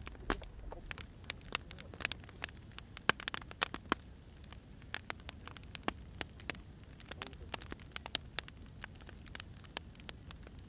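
Burning firewood crackling: irregular sharp pops and snaps over a low, steady rumble of the fire.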